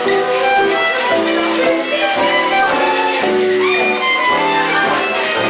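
Live band music with a violin playing the melody over the band's accompaniment.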